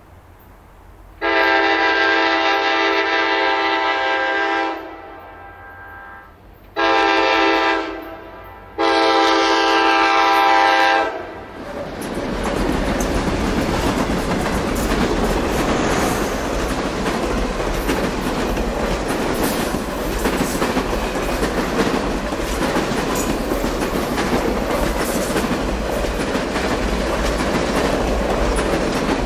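Norfolk Southern F-unit locomotive air horn sounding a multi-tone chord three times, long, short, long, the close of a grade-crossing warning. Then the four F-units and the office cars of the passenger train rumble past close by, with steady wheel clicking over the rail joints.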